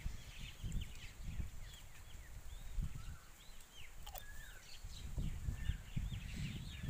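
Small birds chirping repeatedly, short rising-and-falling calls one after another, over an uneven low rumble, with a single sharp click about four seconds in.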